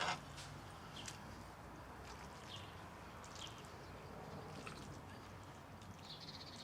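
Faint outdoor ambience with a few brief, distant bird chirps.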